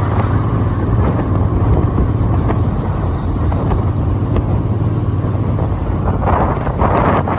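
Motorcycle being ridden, its engine a steady low drone under road and wind noise, with wind buffeting the microphone growing stronger near the end.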